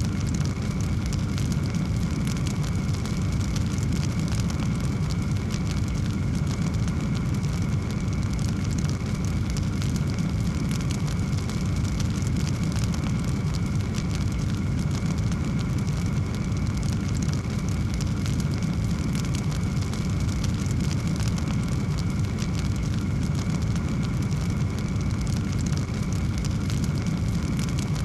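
A wood fire burning in a fireplace: a steady low rumble of flame with frequent small crackles and pops throughout.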